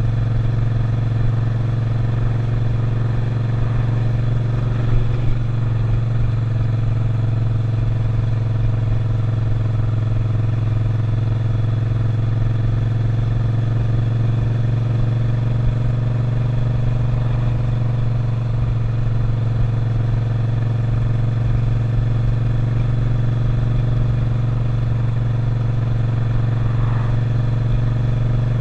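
Suzuki SV650's V-twin engine running at a nearly steady speed under way, heard from the rider's seat; its pitch holds, dipping and recovering only slightly a few times.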